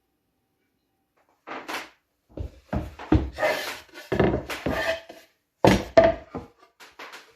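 Wooden beehive box parts being handled: pieces knocking, sliding and clattering against one another in irregular bursts, starting about a second and a half in.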